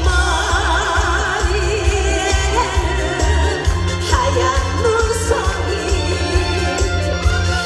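Trot song performed live: a solo singer holds wavering, vibrato-laden notes over a musical accompaniment with a steady, pulsing bass.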